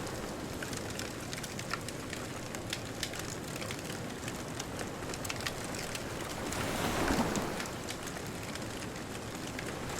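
Bonfire crackling with scattered sharp pops over a steady wash of distant surf. About seven seconds in, a wave swells and breaks, then fades back.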